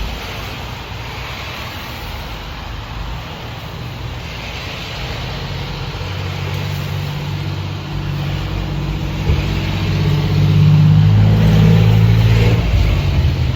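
A motor vehicle's engine running close by over a steady hiss. The engine grows louder from about halfway in and drops away near the end.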